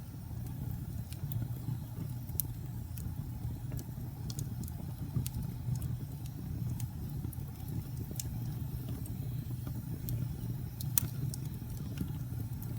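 Wood fire burning in a fireplace: a steady low rumble of flame with frequent small crackles and pops, one sharper pop near the end.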